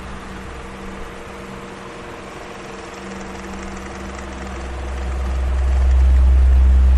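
Electric fan running: a steady whirring hiss with a faint motor hum, under a low rumble that dies down early and swells back up near the end.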